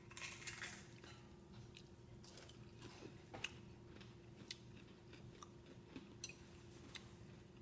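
Faint chewing with scattered small mouth clicks and crunches, a person eating, over a faint steady hum.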